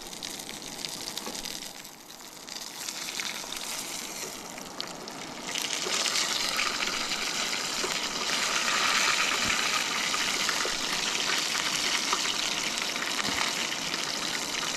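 Pieces of jundiá catfish frying in hot oil, a steady sizzle that jumps louder and brighter about five and a half seconds in.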